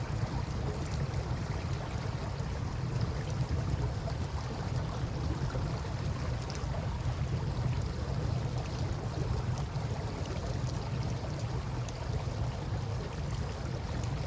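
A steady rush of river water with a low rumble underneath. A campfire crackles faintly now and then over it.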